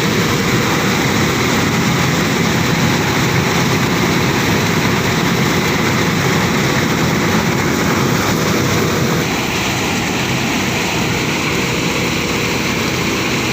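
Engine-driven rice threshing machine running steadily, a loud, constant mechanical din with a low engine hum beneath it. It eases slightly about nine seconds in.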